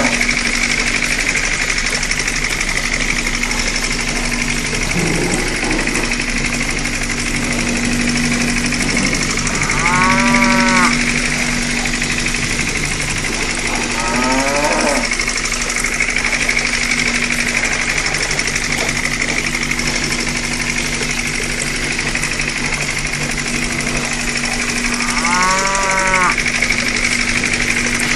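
Cows mooing three times, each a single drawn-out call, over a steady engine drone that runs throughout.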